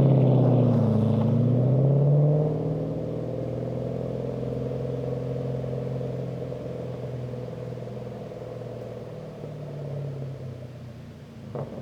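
Lexus SC400 drift car's engine revving up over the first two seconds, then running steadily and slowly fading away.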